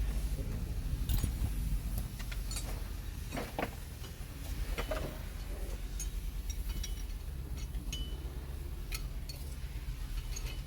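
Metal hand tools clinking and knocking together in scattered, irregular strikes as wrenches are sorted through, over a steady low rumble.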